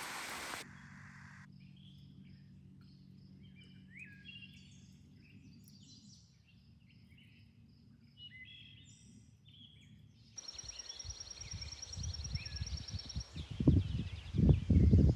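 Several small birds chirping and calling in short, varied notes over a faint low hum. Near the end a high, rapid trill comes in, with gusts of wind buffeting the microphone.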